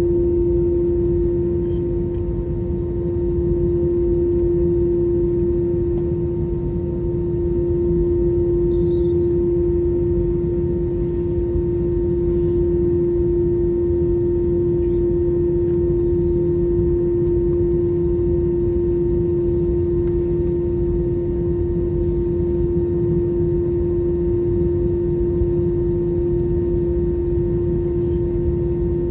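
Airbus A321-211 cabin noise with both CFM56 engines at idle during taxi: a steady low rumble under one strong, unchanging hum, with a few faint clicks.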